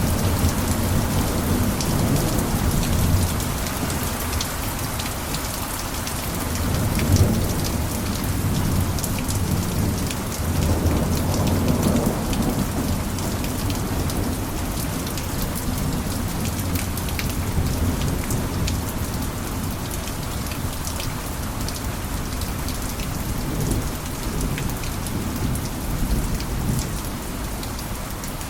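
Steady heavy rain falling on a cabin roof, dense with the ticks of single drops, with a low rumble swelling and fading a few times, loudest about seven and twelve seconds in.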